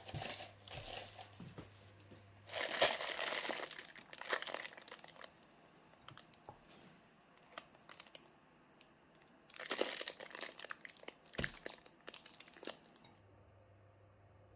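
Crinkly wrapping being handled and crumpled, in three bursts of crinkling: at the start, from about three to five seconds in, and around ten to twelve seconds.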